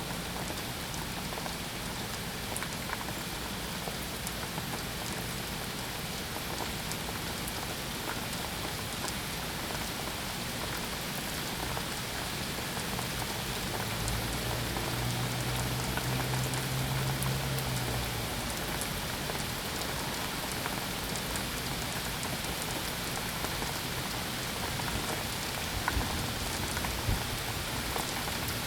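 Steady rain falling on a surface, an even hiss with scattered sharp drop ticks. A low hum swells for a few seconds around the middle.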